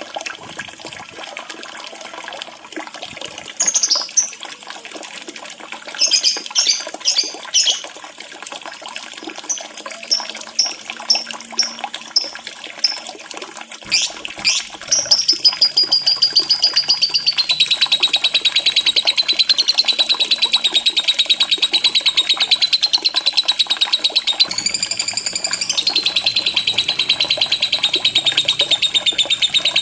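Lovebird calls over steadily running, trickling water: scattered short high chirps, then from about halfway a long, fast, unbroken trill.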